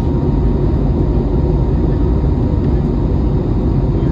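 Steady, loud cabin noise of an Airbus A321neo with its engines running, heard from inside the passenger cabin, with a faint steady hum above the low rumble.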